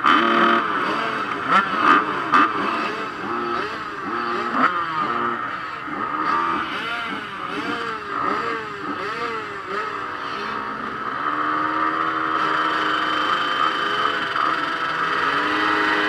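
Motocross bike engines revving, the pitch rising and falling in quick repeated blips, with a few sharp clicks near the start, then holding a steadier high note for the last few seconds.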